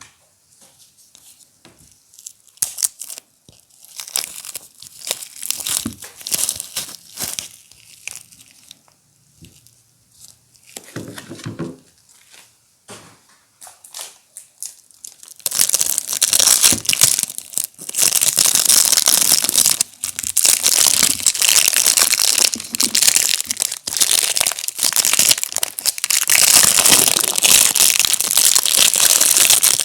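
Soap packaging being unwrapped by hand: scattered crinkles at first, then from about halfway through, continuous dense crinkling and tearing of the wrapper.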